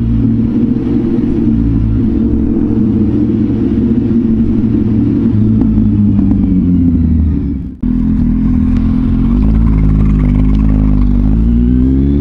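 Kawasaki Z800 inline-four motorcycle engine running at a steady pace. The sound drops out briefly about eight seconds in, then the engine note comes back lower and rises near the end as the bike accelerates.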